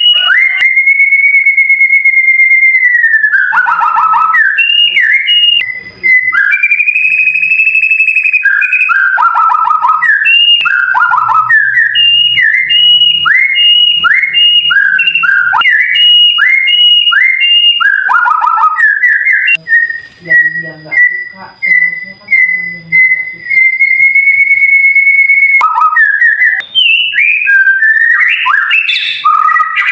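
White-rumped shama (murai batu) singing: long, clear held whistles, a long run of quick repeated down-slurred notes, then a fast burst of varied twittering notes near the end.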